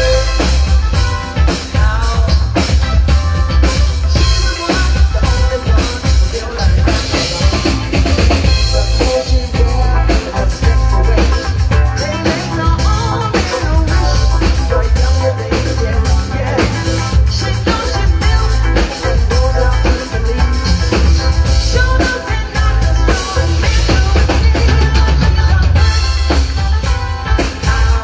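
Band music driven by a full drum kit, with kick drum, snare and rimshots over a heavy bass, playing a steady beat.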